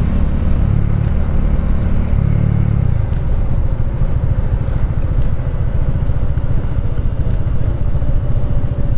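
Bajaj Dominar 400's single-cylinder engine running as the motorcycle is ridden, a steady low rumble.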